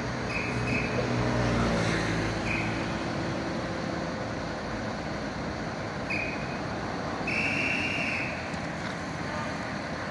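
Street traffic with a vehicle engine running, its tone most prominent in the first few seconds. Four short high beeps come through, the last one longer.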